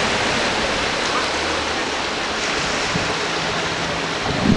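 Steady wash of sea water, an even continuous hiss with no distinct splashes.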